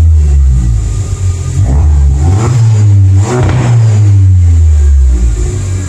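2019 VW Jetta's 1.4-litre turbo four-cylinder, its muffler and resonator deleted for a 3-inch straight pipe from the cats, running loud with a deep exhaust rumble. The engine is revved twice in quick blips, about two and a half and three and a half seconds in.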